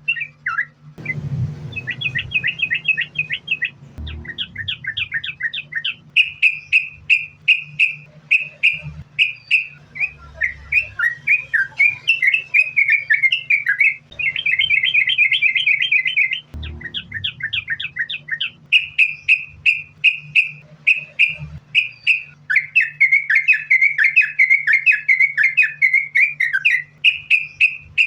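Yellow-vented bulbul (trucukan) singing without a break in fast runs of short, bright chirping notes, the continuous "sambung ropel" song used as a lure to set other trucukan singing.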